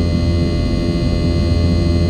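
Boeing 717-200's rear-mounted Rolls-Royce BR715 turbofans at high power, heard from inside the cabin. A steady drone with a deep low rumble and thin steady whining tones over it.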